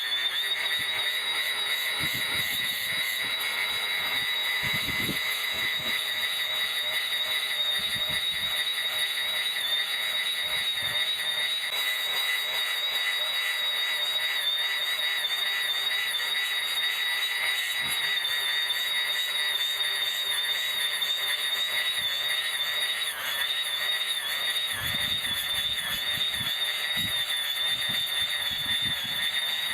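Electric brush cutter running with a steady high whine that wavers slightly in pitch as it cuts grass, with a few low thuds mixed in.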